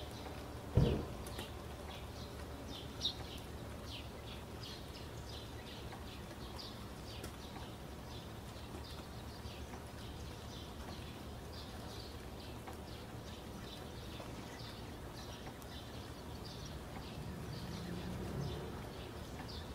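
Birds chirping, short high calls repeated throughout, over a steady low hum. A single low thump sounds about a second in.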